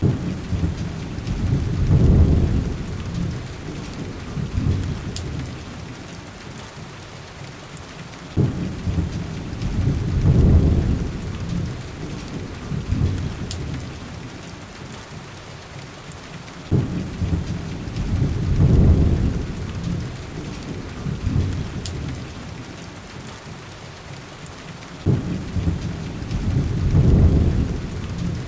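Heavy rain pattering steadily on window glass, with low rolls of thunder. Each roll starts suddenly, swells and fades, and they come about every eight seconds. A few faint pops from a log fire.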